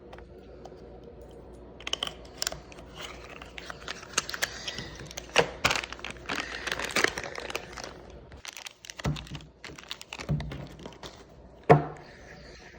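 Hands handling small parts: rustling and crinkling with scattered clicks and knocks, and one sharp knock near the end.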